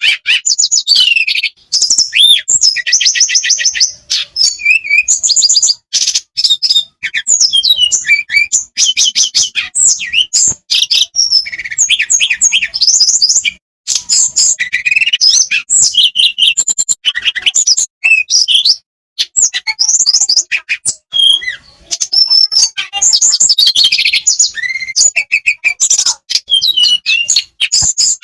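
Flowerpecker song: rapid, high-pitched trills and chattering twitters, nearly continuous with a few short pauses.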